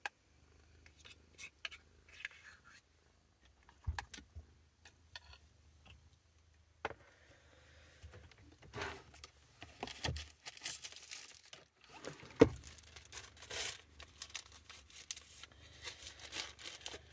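Plastic bag crinkling and rustling while food is handled and bagged, with scattered clicks and scrapes, sparse at first and busier in the second half, and one sharper knock in the later part.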